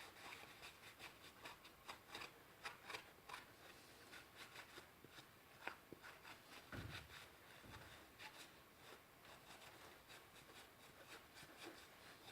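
Faint, irregular scraping and rubbing: a scraper working chemically softened paint off the metal body of an old bench grinder.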